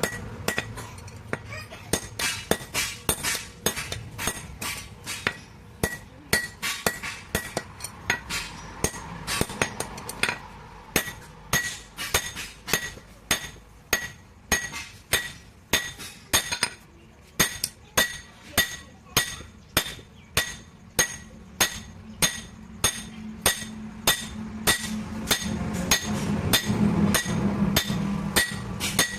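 Blacksmith's hammer striking metal on an anvil in a steady rhythm, about two ringing blows a second.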